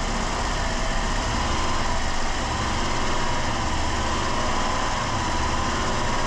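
2007 Dodge Caravan's engine running steadily above idle with a thin whine over it, burning off the last of the Seafoam cleaner drawn into its intake.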